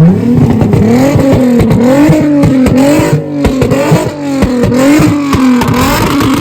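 A car engine revved hard and held high, its pitch bouncing up and down many times in quick succession, with sharp exhaust pops throughout.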